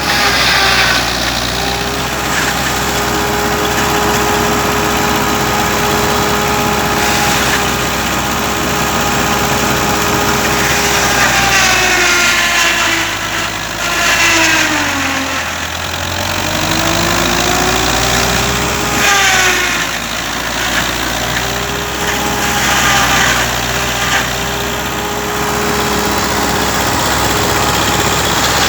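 Belarus 510 tractor's diesel engine running steadily; about halfway through its pitch sinks and climbs back, and dips once more shortly after, as engine speed falls and recovers.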